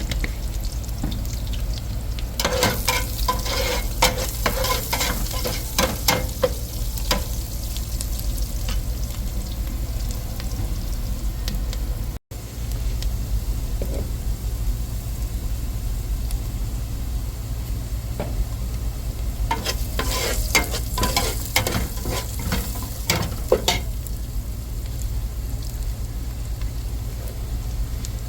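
Food sizzling in a cooking pan, stirred with a utensil in two spells of quick scraping and clinking, one a few seconds in and one about two-thirds of the way through, over a steady low rumble.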